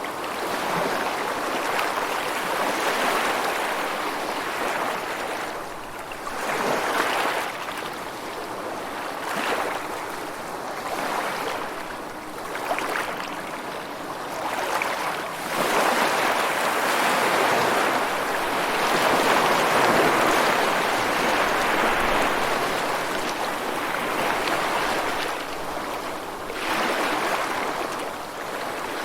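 Rushing water, a steady wash of noise that swells and ebbs every few seconds.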